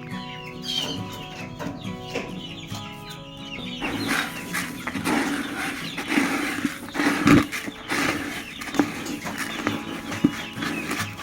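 Chickens clucking over background music; the animal sounds get busier about four seconds in, with a sharp thump about seven seconds in.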